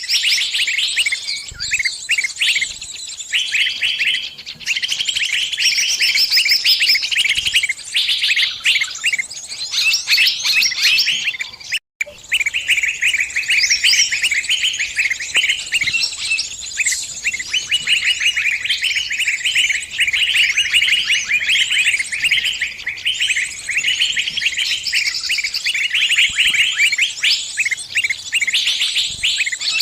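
Small bird's distress calls: fast, unbroken high chirping and twittering, the calls of a bird caught in a trap calling for help. The sound cuts out for an instant about twelve seconds in.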